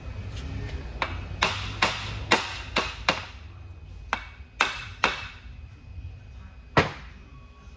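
Metal being struck with a hammer about ten times in irregular taps, each leaving a short ring, with the loudest single blow near the end.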